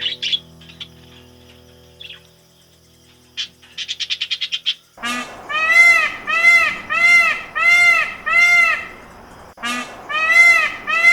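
Animal calls: a few short chirps and a quick trill, then a loud run of evenly repeated, arched, pitched calls, nearly two a second, starting about halfway through.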